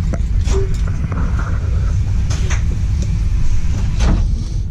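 Steady low rumble of a moving train heard inside the carriage, with a few sharp clicks and knocks, twice close together in the middle and once near the end.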